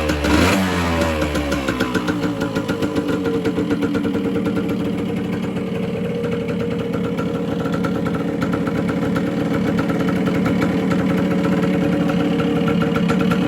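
Yamaha AG100's two-stroke single-cylinder engine running, revved near the start and then running steadily.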